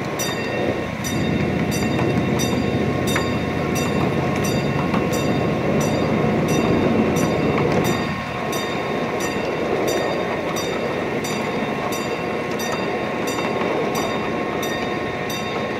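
Miniature ride-on garden train running along its track: a steady rumble with a faint mechanical hum, and a regular clicking about three times a second.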